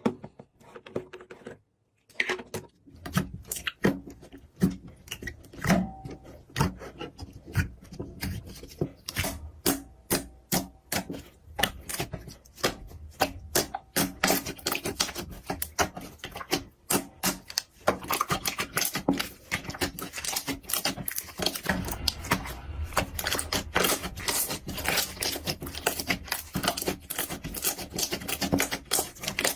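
Slime being squeezed and kneaded by hand, making sticky clicking and popping. The clicks are sparse at first, then run fast and close together from about a third of the way in.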